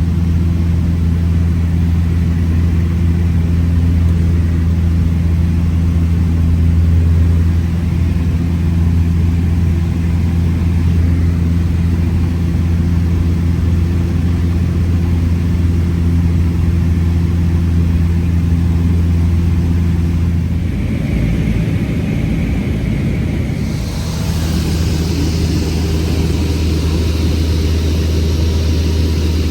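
Cessna 172's piston engine and propeller droning steadily, heard from inside the cabin. About twenty seconds in the tone shifts, and a few seconds later a steady hiss joins the drone.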